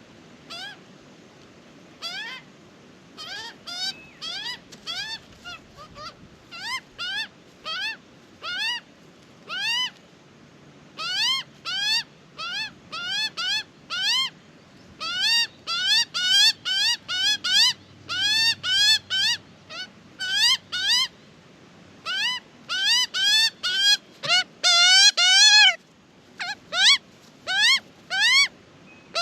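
Australian magpie chick begging: a long series of short calls, each rising then falling in pitch. The calls come a few a second, get louder and more frequent from about ten seconds in, and crowd into a rapid run near the end.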